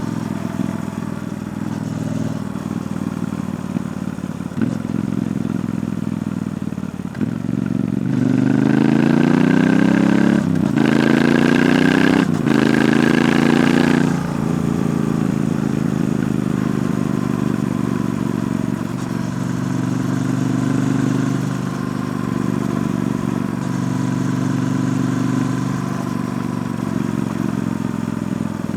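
Triumph Bonneville T120's 1200 cc parallel-twin engine through its stock exhaust while riding. It runs steadily, then revs up hard about eight seconds in, breaks briefly for a gear change, rises again and is loudest there, and settles back to a steady cruise a few seconds later.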